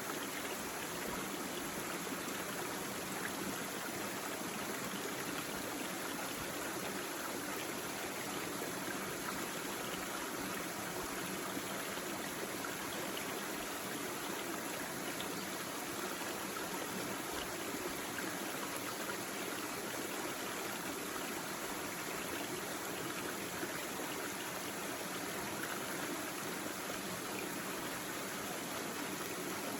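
Small stream babbling and trickling over rocks, a steady, even flow of water.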